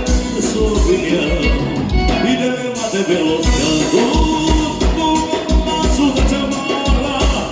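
Live gaúcho dance music from a band, led by accordion over a steady bass beat.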